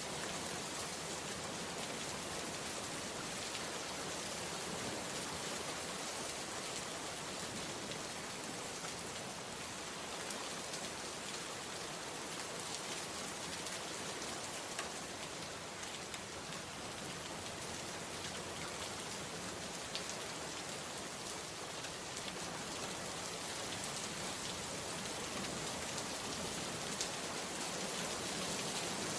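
Steady rainfall, with the hiss of rain and now and then a single drop ticking louder.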